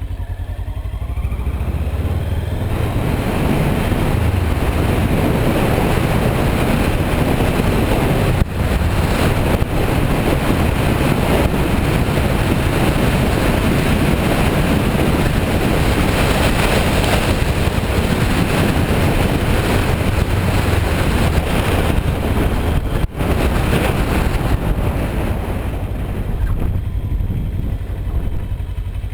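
Kawasaki Versys 650's parallel-twin engine running while riding, mostly buried under heavy wind noise on the microphone. The wind builds about two seconds in and eases near the end, leaving the engine plainer, and the sound cuts out for an instant twice.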